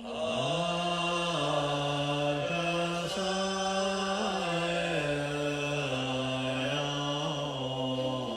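A man's voice chanting a slow melodic mantra or prayer. Each note is held for about a second before stepping up or down in pitch.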